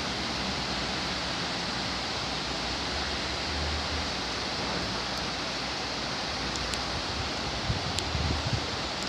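Torrential tropical downpour with strong wind, a steady dense hiss of rain. A few low thumps near the end.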